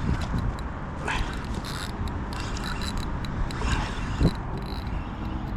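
Fishing reel working as a hooked fish is brought in, giving irregular ratcheting clicks, over a low rumble of wind on the microphone. A single knock about four seconds in.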